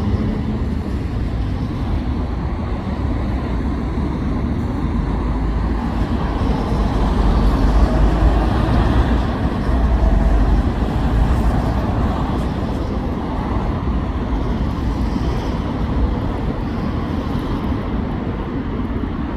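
Road traffic passing on a street, a steady rumble of engines and tyres, swelling as a vehicle goes by close at about halfway through, then easing off.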